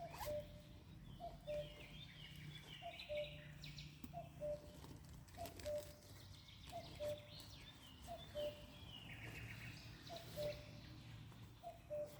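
Forest birds calling: one bird repeats a short low note about once a second, while another sings higher twittering phrases now and then.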